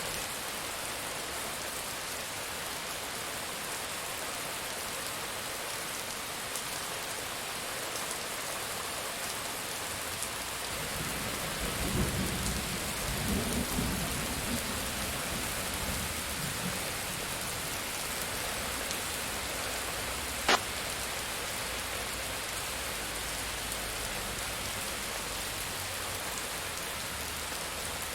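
Steady rain falling, with a low roll of thunder rumbling for several seconds near the middle. A single sharp click follows a few seconds later.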